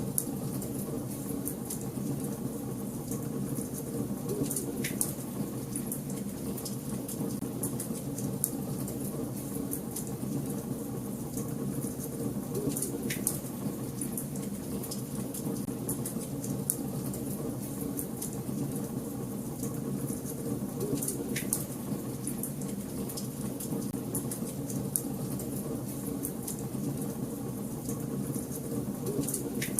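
Wood fire burning in a fireplace: a steady low rumble with a constant spatter of small crackles, and three sharper pops several seconds apart.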